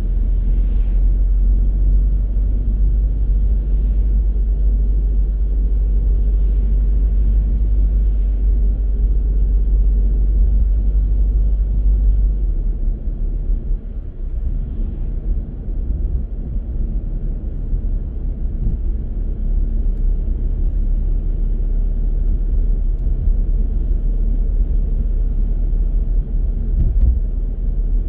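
Car driving through city streets: a steady low rumble of road and engine noise, easing somewhat about halfway through.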